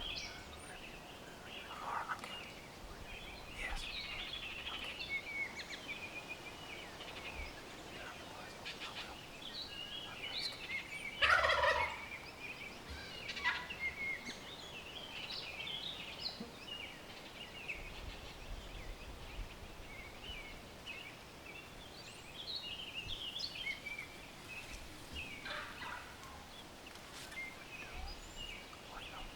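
Wild turkey gobbling, with one loud gobble about eleven seconds in, amid many softer, high bird calls.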